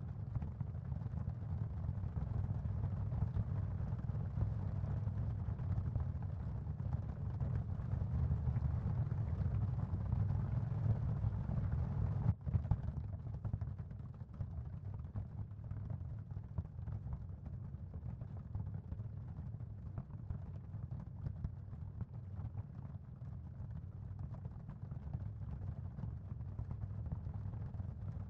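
Steady, low, rumbling ambient noise bed used as a sound-therapy background for tinnitus and sleep. It is heaviest in the bass with a softer hiss above, and breaks briefly about twelve seconds in, after which the hiss is fainter.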